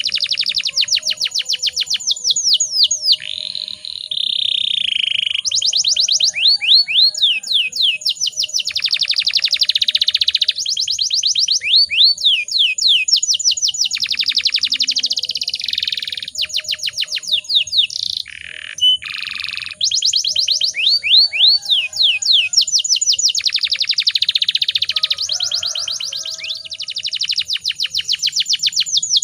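Domestic canary singing a long, continuous song of rapid trills and rolling phrases, with brief pauses between phrases.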